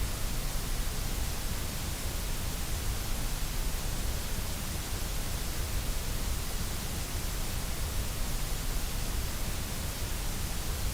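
Steady, unchanging synthetic white noise: an even hiss across the whole range with a deeper rumble beneath it, no events or variation.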